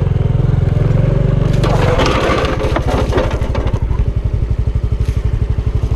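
Yamaha Ténéré 250 single-cylinder motorcycle engine running with a steady pulse, its beat dropping to a slower, lower note about two seconds in, with a brief crunching noise over it about two seconds in.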